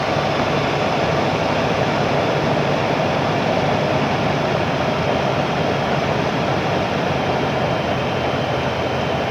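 2005 Jeep Grand Cherokee engine running steadily with the transmission in drive; the engine has a slight exhaust leak.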